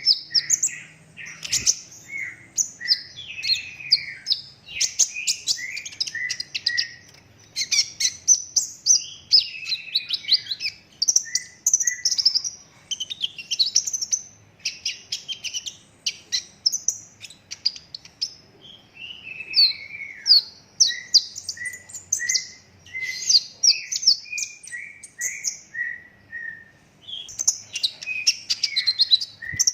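Kolibri ninja (purple-throated sunbird) singing a fast, continuous song of high chirps and rattling trills. In the second half it adds runs of short repeated notes.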